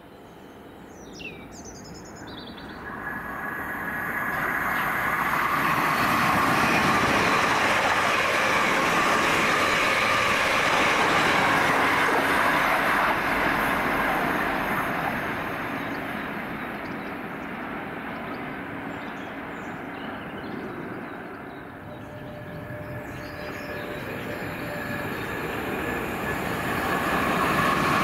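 Passenger train passing at speed on the main line: a rushing rumble of wheels on rail that builds over a few seconds, holds, then slowly fades. Near the end the same rushing noise builds again as another train approaches. A few bird chirps are heard in the first couple of seconds.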